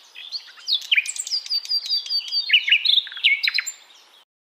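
A bird singing a rapid, varied song of chirps and sharp down-slurred whistled notes, which stops about four seconds in.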